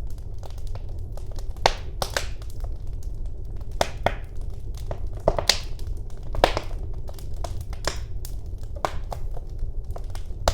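Wood fire burning in a fireplace: a low steady rumble of the flames with frequent small crackles and several louder sharp pops as the burning logs split.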